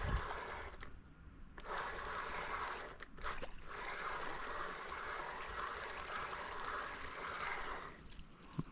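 Water trickling and gurgling in a steady hiss that breaks off briefly twice and stops near the end.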